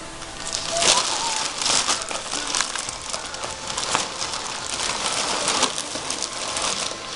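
A bag rustling and crinkling in irregular bursts, as a cat moves about inside it.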